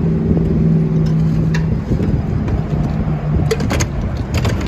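Motor vehicle engine running with a steady hum that fades after about two seconds, followed by a few sharp clicks near the end.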